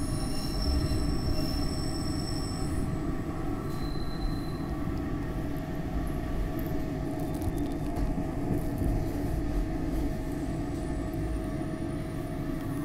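SEPTA Market-Frankford Line elevated train running, heard from inside the car: a steady rumble of wheels on rail under a constant whine, with high-pitched wheel squeals in the first few seconds and again near the end as it pulls into a station.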